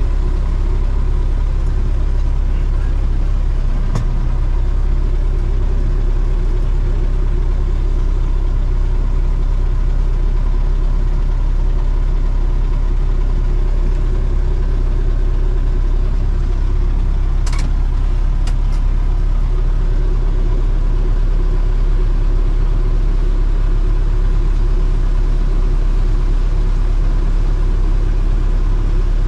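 A farm diesel engine running steadily at a constant speed, with a couple of brief clicks over it.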